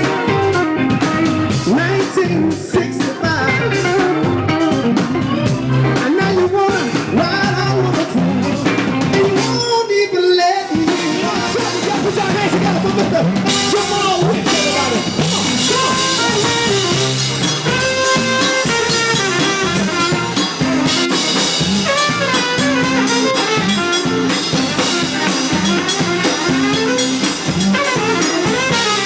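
Live blues band playing, with a drum kit and guitar. The bass and drums drop out briefly about ten seconds in, then the band comes back in.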